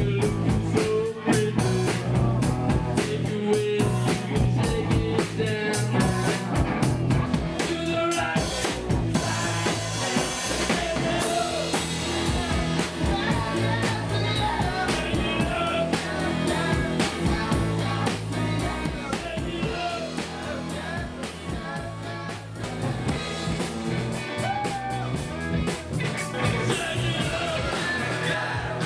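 Live rock band playing: drum kit, guitars and bass, with a singer's voice over them.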